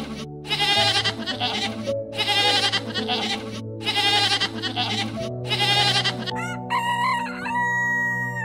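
Goats bleating, about four similar bleats in a row roughly one and a half seconds apart, over background music. About six and a half seconds in, a rooster begins a long crow that is still going at the end.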